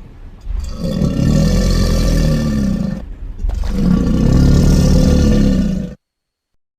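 Two long, low creature growls from a dinosaur sound effect, each about two and a half seconds, one after the other. The second cuts off abruptly about six seconds in.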